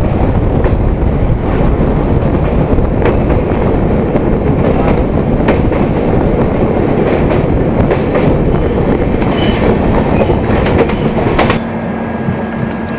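Express passenger train running on the track: a loud, steady rumble with irregular clacks of the wheels over rail joints. About eleven and a half seconds in it turns quieter and a steady hum comes in.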